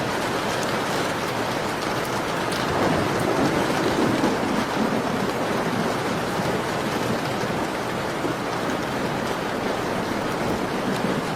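Steady rain falling, with a few faint crackles of a wood fire. A brief low swell rises about three seconds in and fades about two seconds later.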